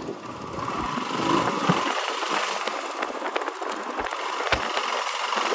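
Royal Enfield Himalayan's single-cylinder engine running as the motorcycle is ridden slowly through traffic.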